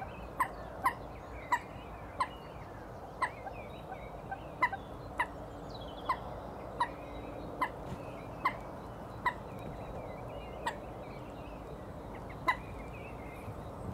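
A bird repeating a short, sharp call over and over at uneven gaps of about a second, with fainter birdsong behind it.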